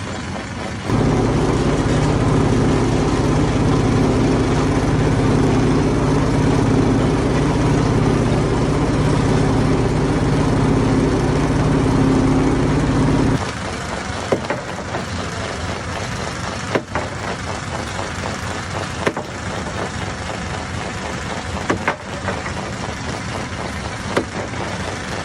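Stone crusher machinery running steadily with a deep hum. The loud running starts about a second in and cuts off abruptly about halfway through. A lower steady machine noise follows, with a few sharp knocks.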